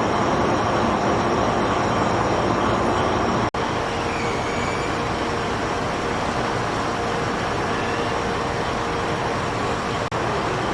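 Steady vehicle running noise, a continuous rumble with faint steady tones, broken by two sudden momentary cut-outs, one about three and a half seconds in and one near the end.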